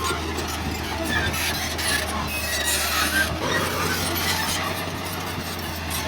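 Bulldozer at work: its diesel engine a steady low drone, with short high squeaks from the crawler tracks. The engine note drops slightly about halfway through.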